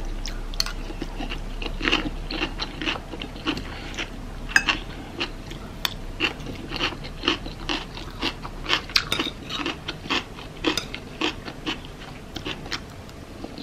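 Close-up chewing of a taco rice bowl with crunchy fresh vegetables: a mouthful bitten and chewed, with many short crunches a second.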